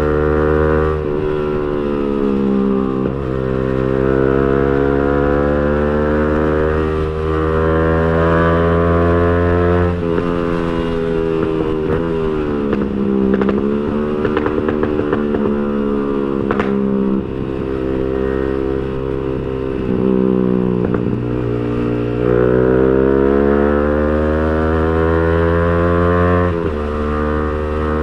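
Yamaha R15 V3's single-cylinder engine through an aftermarket racing exhaust, riding along. The pitch climbs steadily for several seconds and then drops sharply, again and again, as it pulls through the revs and comes off the throttle.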